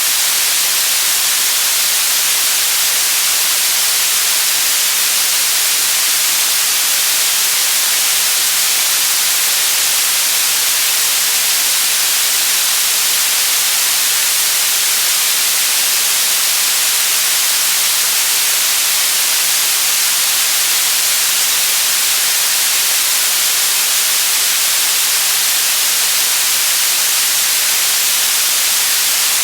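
White noise: a steady, even hiss with no tones or events, strongest in the high frequencies.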